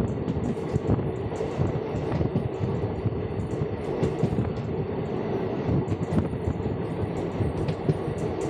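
Express train running on the rails, heard from on board: a steady rumble of wheels and coach with frequent knocks and rattles.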